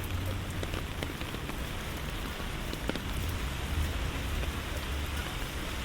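Steady rain falling on a city street, with a low rumble underneath and a few sharp drip ticks, one clearest about three seconds in.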